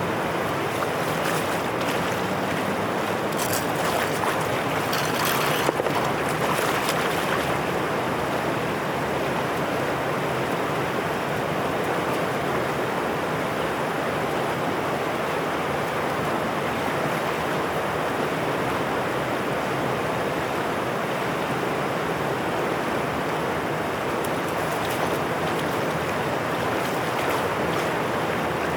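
Floodwater rushing steadily through a drainage channel, with a short stretch of sharper crackling splashes about four to seven seconds in.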